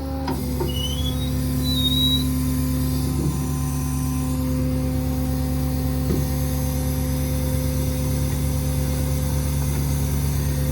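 Hydraulic outriggers of a service truck retracting: the 6.7 L Power Stroke diesel runs steadily while the hydraulic system gives a steady whine, with a short high squeak about a second in.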